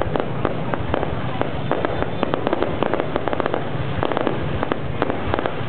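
Fireworks going off: a rapid, irregular run of sharp bangs and crackles over a steady rumble.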